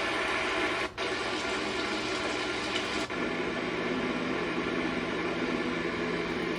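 Electronic white noise machine playing steady rushing noise through its small speaker. It cuts out for a moment about a second in and again about three seconds in as it switches to the next of its built-in sounds, and the later sound is fuller and lower.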